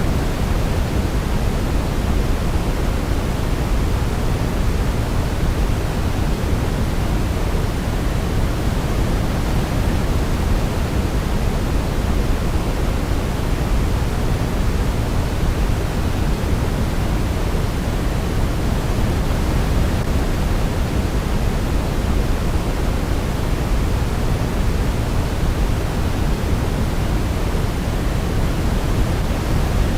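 Steady synthetic sleep noise of the kind sold as white noise for babies: a deep, even hiss, heavier in the low end, with no melody and no change throughout.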